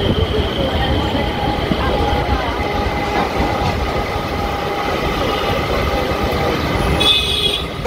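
Suburban electric local train running with a steady rumble, and people talking in the background. The sound changes abruptly about seven seconds in.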